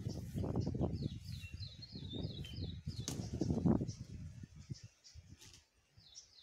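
A small bird singing runs of short high chirps, about five a second, over a louder low rumbling noise that dies away near the end.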